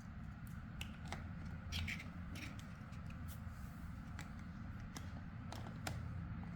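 Plastic building blocks clicking and snapping as pieces are handled and pressed together: about a dozen short, irregular clicks over a low, steady hum.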